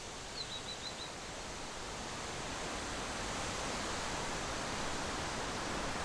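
Steady rushing noise that slowly grows louder, with a quick run of five short high chirps about half a second in.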